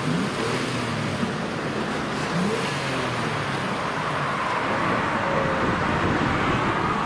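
An off-road SUV's engine running, with the revs rising and falling over a steady rumble.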